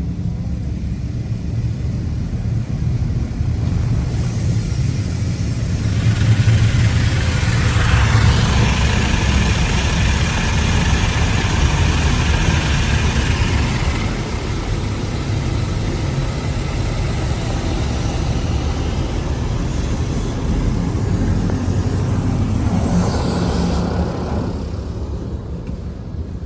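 Mark VII ChoiceWash XT automatic car wash running over the car, heard from inside the cabin: a steady low machine rumble under a hiss of water spraying onto the body. The spray swells about six seconds in, surges again near the end, then fades.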